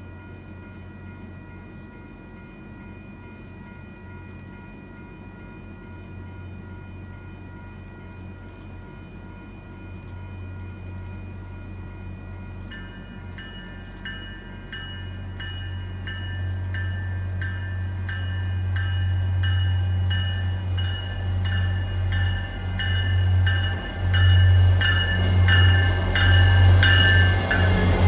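MBTA commuter rail diesel locomotive approaching and drawing alongside, its engine drone growing steadily louder to its loudest at the end. A warning bell rings throughout, struck about twice a second and much louder from about halfway in.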